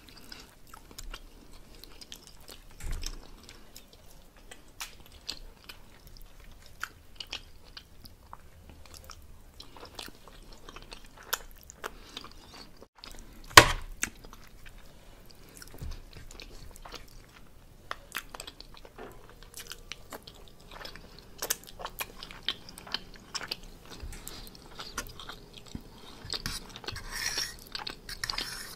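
Close-up chewing and wet mouth sounds of someone eating honey garlic pork roast, with small clicks of a fork against a glass sauce bowl and plate. A single louder clink comes about halfway through.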